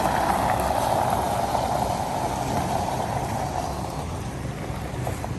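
Radio-controlled model truck running, its motor and gear noise fading away over the first few seconds above a steady low hum.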